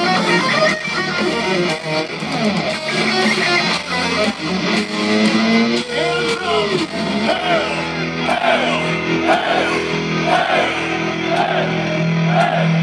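Heavy metal band playing live: electric guitars over bass and drums, with a lead guitar line of bent, wavering notes that repeats in short arched phrases in the second half.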